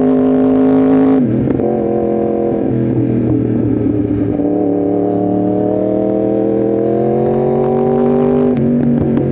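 Yamaha R1M's crossplane inline-four running under way. The engine note drops sharply about a second in, climbs steadily for several seconds as the bike pulls, and drops sharply again near the end.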